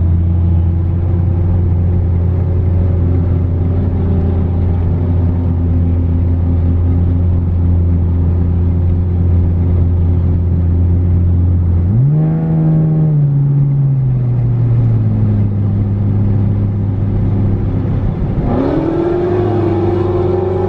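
Car engine running with a steady low drone, then revving up sharply about twelve seconds in and easing back down over a few seconds, and rising again near the end.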